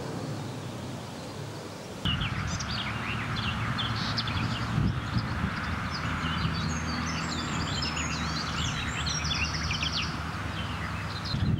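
Outdoor birdsong: several small birds chirping and warbling, coming in suddenly about two seconds in over a steady low hum. Before that there is only a soft rushing background.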